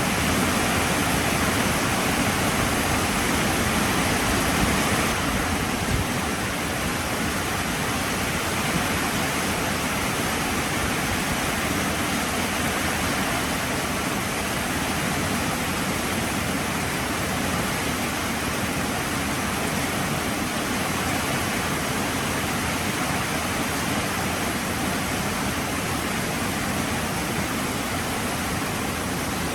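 Heavy rain falling steadily, a dense even hiss that eases slightly about five seconds in.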